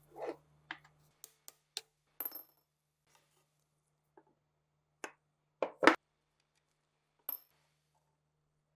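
Scattered metal clinks and light knocks of parts being handled, about a dozen in all, with a louder double knock just before six seconds in.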